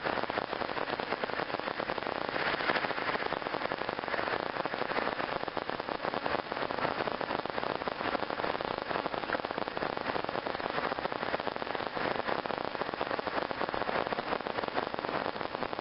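Steady, crackling hiss inside a minivan's cabin as it is driven, with no engine or alternator whine standing out over it.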